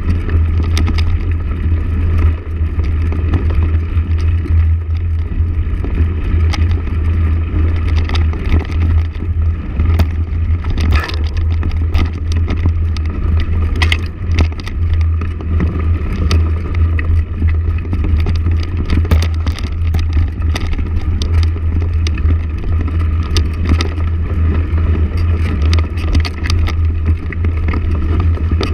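Motorcycle running steadily while being ridden: a heavy, unbroken low rumble with frequent short knocks and rattles over it.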